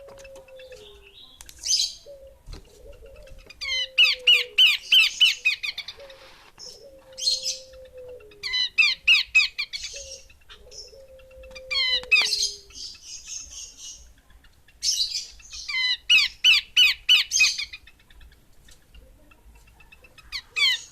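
Female pelanduk semak babbler calling: loud bursts of fast, chattering notes, each about one to two seconds long, repeated several times. A soft, low whistled note runs under the calls in the first half.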